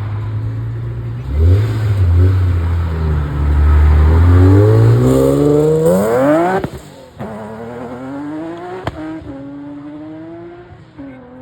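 A car engine revs, then accelerates hard, its pitch climbing steeply until it cuts off suddenly about two-thirds of the way in. A quieter engine note carries on after.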